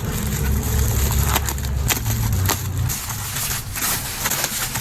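Packaging being unwrapped and handled for the magic water markers: crinkling with scattered sharp clicks over a steady low rumble.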